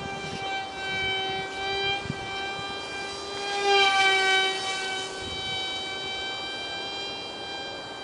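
Ultra micro RC plane's 8mm direct-drive electric motor and propeller whining steadily in flight, briefly louder with a slight shift in pitch about four seconds in.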